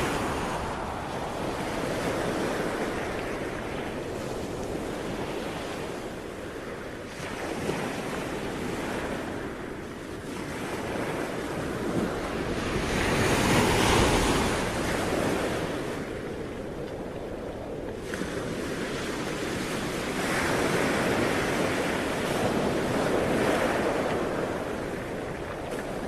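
Ocean waves breaking and washing on a shore, a continuous surf that swells and eases every few seconds, with the biggest wave at about halfway through.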